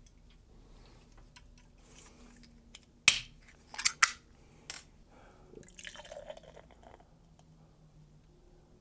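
Handling of a beer drink: a few sharp clicks and clinks about three to five seconds in, then a short splash of liquid.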